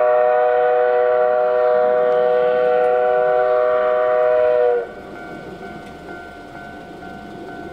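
Train whistle sounding one long, steady blast of several tones at once, cutting off sharply about five seconds in. It is followed by the quieter, steady running noise of the train.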